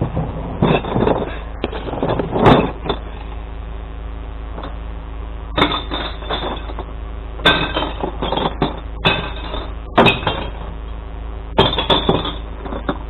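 Glass bottles and jars crashing and clattering into a glass-recycling truck in several irregular bursts, over the steady hum of the truck's running engine.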